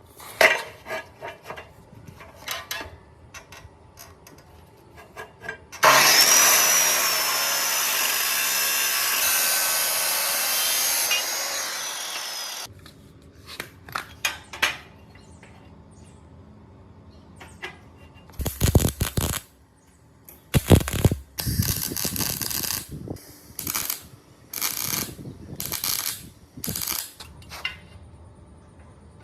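Workshop power tool running steadily for about six seconds with a faint whine that glides, after scattered clicks and knocks. Later comes a string of short bursts of tool noise, each under a second, with gaps between them.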